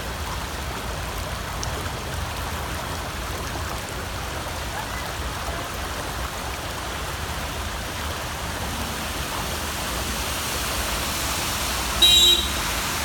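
Rainwater running in a street, a steady rushing hiss of flowing water. Near the end a short, sharp high-pitched sound cuts in briefly.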